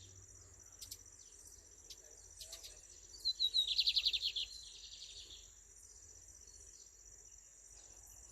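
Lined seedeater (bigodinho) singing one short song about three seconds in, in the 'ranca toco' style: a quick run of sharp notes that runs into a rapid trill and fades.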